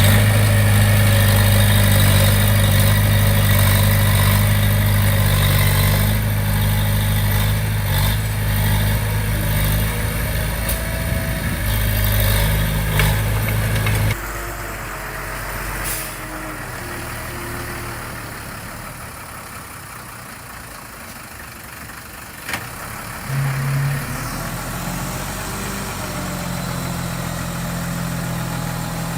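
Heavy-equipment diesel engine running steadily with a deep, even note. About halfway through it changes abruptly to a quieter, lower engine sound, with a brief louder rise near the end.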